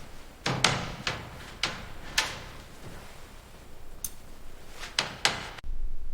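About eight sharp, irregularly spaced knocks and clanks from hand tools working on an old car. A low rumble comes in near the end.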